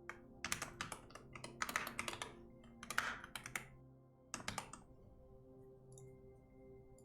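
Typing on a computer keyboard in quick runs of keystrokes, which stop about two-thirds of the way through. Soft ambient background music plays underneath.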